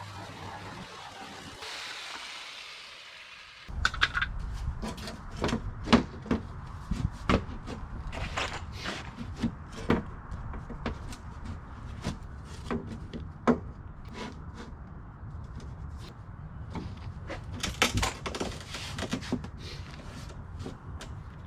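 Wooden boards being handled and knocked: irregular sharp wooden knocks and clatter, beginning abruptly about four seconds in, after a few seconds of faint hiss.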